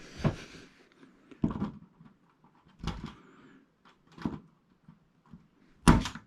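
About five short clicks and knocks, spaced a second or so apart with the loudest near the end: needle-nose pliers and hands working a small part loose from an LCD TV's backlight assembly.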